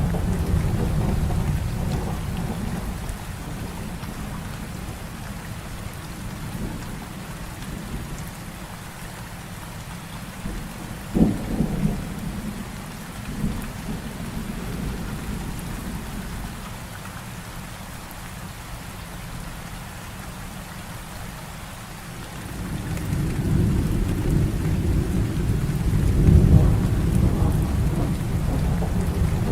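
Heavy rain falling steadily, with thunder. A low rumble fades over the first few seconds, a sharp crack comes about eleven seconds in, and another long rumble builds about two-thirds of the way through, loudest near the end.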